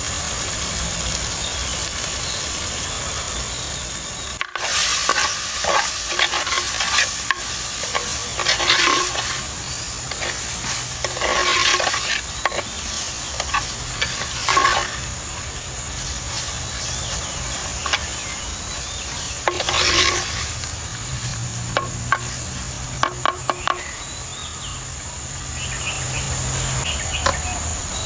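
Food sizzling in a cooking pot while a spoon stirs and scrapes it in repeated strokes, each stroke ringing faintly on the metal; a cut about four seconds in breaks a steady hiss, and a few sharp clicks of the spoon on the pot come near the end.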